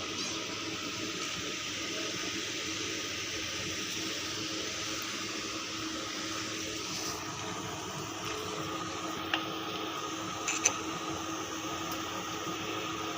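Steady background hiss with a faint hum, broken by two short sharp clicks about a second apart after the middle.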